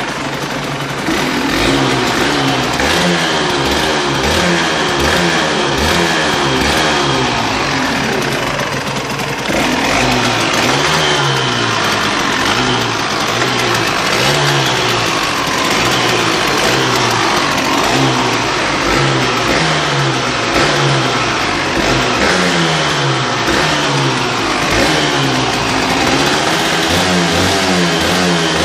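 Yamaha DT 125 X two-stroke single-cylinder engine, cold and on its original exhaust, revved over and over in short throttle blips. Its pitch rises and falls about every second and a half.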